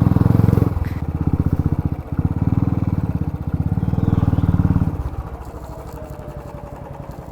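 Small scooter engine revved in throttle bursts, with a brief dip about a second in and another near two seconds, then easing off to a quieter run about five seconds in. The scooter is being ridden on a slippery track where it keeps sliding.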